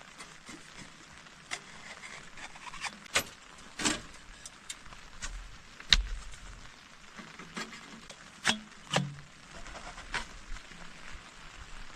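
A dozen or so irregular sharp knocks and clicks over a faint steady hiss, the loudest about six seconds in.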